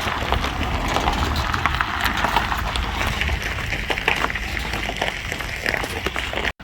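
Pickup truck on the move: a steady low rumble and hiss with many small irregular clicks and crackles, cutting off abruptly near the end.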